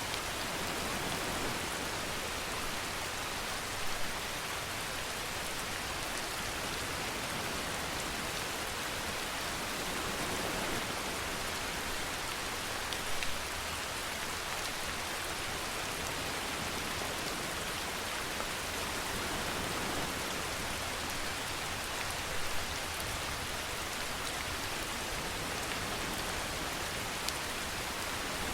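Steady rainfall, an even hiss of rain falling on a surface, with a few brief louder spatters about four, thirteen and twenty-two seconds in.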